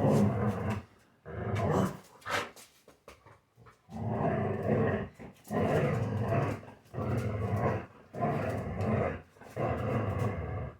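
A dog play-growling while playing with a toy: a run of about eight long, rumbling growls, each about a second long with short pauses between them.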